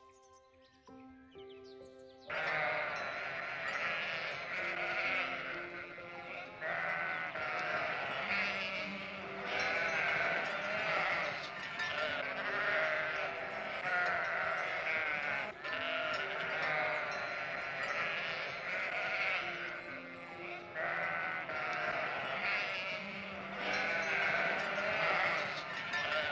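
Many sheep bleating at once, a continuous overlapping chorus that starts suddenly about two seconds in, over calm background music.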